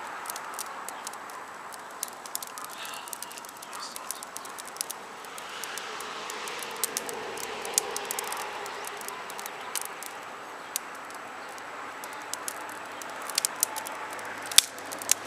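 Wood fire burning, crackling with many small sharp pops and a few louder snaps near the end.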